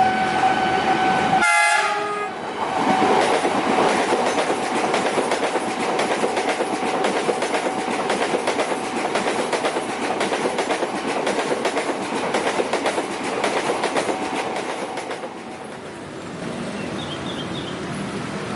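Train horn sounding with a steady chord of tones, broken off about a second and a half in. Then a long train rushes past at speed, its wheels clattering rapidly over the rail joints for about thirteen seconds before the sound drops away near the end.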